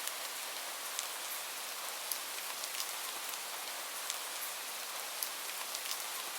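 Steady rain, a dense hiss with irregular sharp drop ticks scattered through it.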